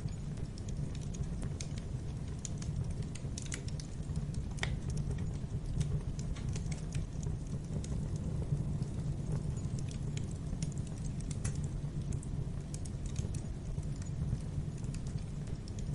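Wood fire crackling in a fireplace: irregular sharp pops and snaps over a steady low rumble from the burning logs.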